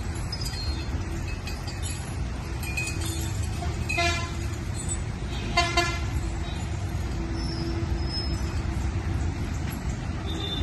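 Two short, high-pitched toots, about a second and a half apart, over a steady low rumble.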